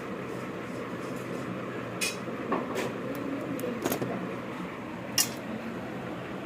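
Metal clinks and knocks, about six scattered over a few seconds with the loudest near the end, from tools and metal parts being handled, over a steady workshop hum.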